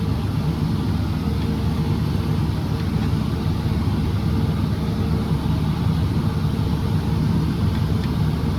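Tractor engine running steadily, heard from inside the cab while it pulls a grain cart at slow field speed. It makes an even drone with a constant low hum.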